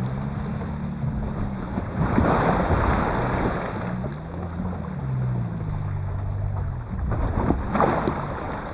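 Boat motor humming, its pitch rising and falling before it fades out near the end, over a steady rush of wind and water noise.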